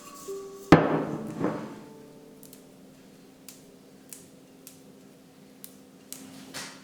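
A loud, sharp knock with a ringing tail about a second in, a second hit just after, then a low steady hum with a few light clicks and taps.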